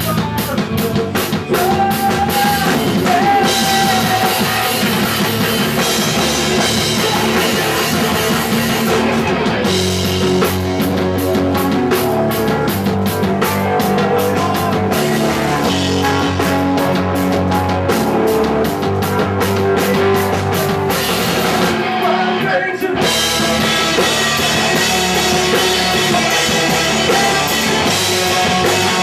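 Punk rock band playing live: drum kit, guitars and bass at full volume, with a brief stop about 22 seconds in before the band comes back in.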